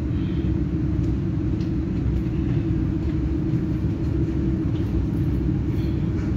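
Steady low rumble of a passenger train carriage, heard from inside the carriage.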